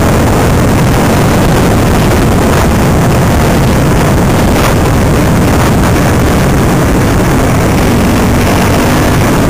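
Enduro motorcycle engine running steadily under way on a gravel track, loud and distorted, mixed with wind buffeting the microphone.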